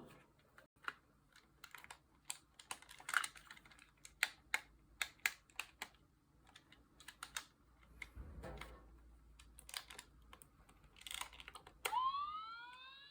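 Scattered sharp plastic clicks and taps as a toy is handled. About a second before the end, the electronic siren of a Tomica Town toy fire station starts up, rising in pitch.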